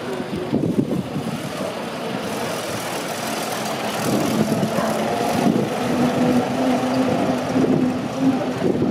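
Veteran open touring car driving slowly past over cobbles, its engine running with a steady low note.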